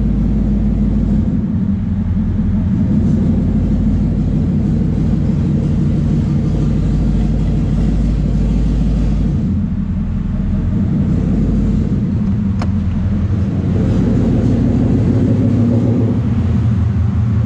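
Ford Coyote 5.0 V8 idling steadily just after its first start, on a stock tune with no throttle input. It gets a little louder in the last few seconds, and there is one sharp click about two-thirds of the way through.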